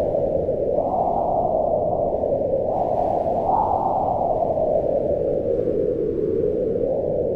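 Deep, steady rush of wind, swelling and easing in slow gusts every few seconds.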